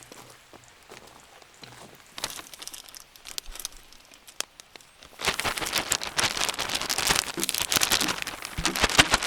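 Faint scattered clicks and crackles, then about five seconds in a hot pan starts sizzling loudly and suddenly, a dense crackling hiss as food or liquid hits the hot metal.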